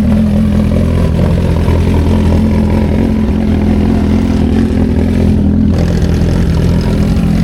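Superbike engine idling steadily, a low, even note that holds without revving.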